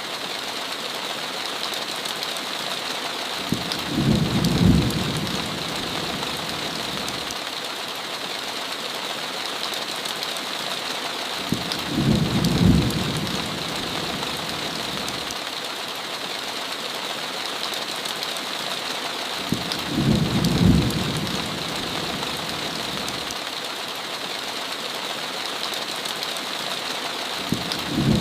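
Steady heavy rain hiss with a short low rumble of thunder that swells and fades about every eight seconds, each rumble the same shape.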